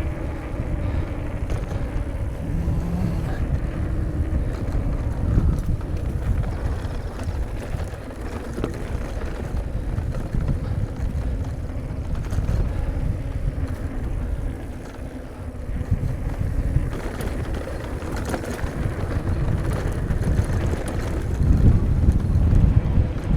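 Wind buffeting a helmet or bike-mounted camera microphone while mountain bike tyres rumble over a rough, rutted dirt trail, with the bike rattling and clicking over bumps.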